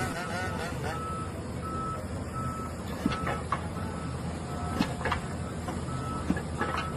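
Vehicle reversing alarm beeping steadily, about three beeps every two seconds, over a low engine running, with a few sharp knocks in the second half.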